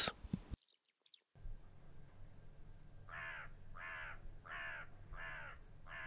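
A bird in the background calls five times, about two-thirds of a second apart, starting about three seconds in; each call falls in pitch.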